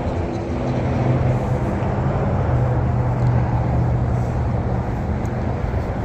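A motor vehicle's engine running with a steady low hum, over outdoor background noise.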